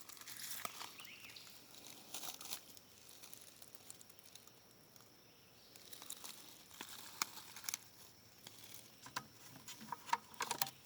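Faint, irregular crackling and rustling of dry leaf litter, with a quieter spell in the middle.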